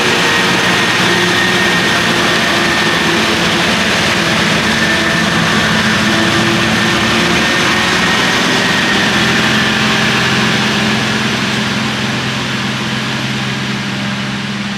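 Heavy lorry's diesel engine pulling in first gear: a steady drone with a high whine over it, fading over the last few seconds.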